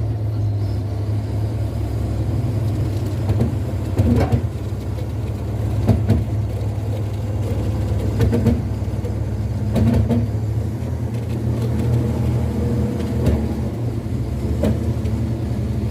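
Heavy truck's diesel engine running steadily, with a few scattered knocks over it.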